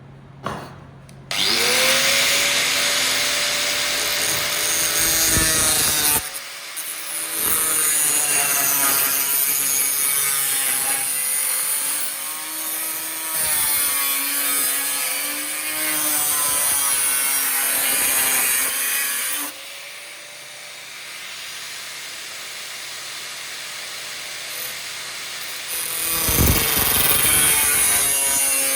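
Power tool, most likely an angle grinder, switching on and cutting the steel of a circular saw blade. The motor whine sags and recovers as it bites. It eases to a quieter run about two-thirds through, then cuts hard again near the end.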